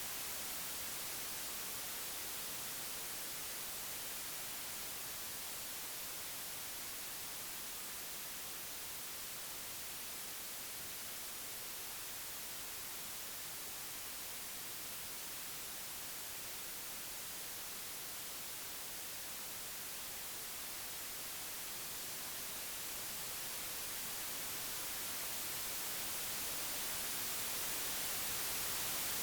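Computer-generated white noise: an even hiss with no tones or clicks, brightest in the treble. Its level sinks slightly through the middle and swells again toward the end.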